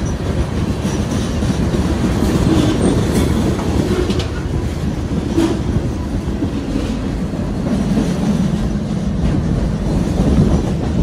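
Freight train tank cars and empty centerbeam flatcars rolling past at close range: a steady rumble of steel wheels on rail with clickety-clack over the joints and a few brief wheel squeals.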